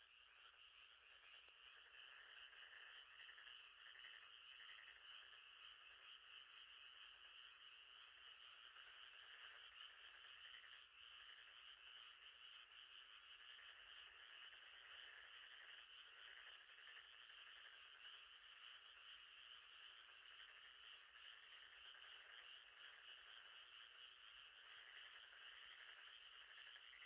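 Faint, steady night chorus of frogs and insects, a continuous high-pitched pulsing din that does not change.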